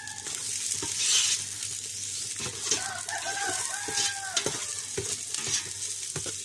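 Garlic, ginger and lemongrass sizzling in hot oil in a pot, with the clicks and scrapes of a spoon stirring them. Through the middle, a chicken calls several times in short pitched notes.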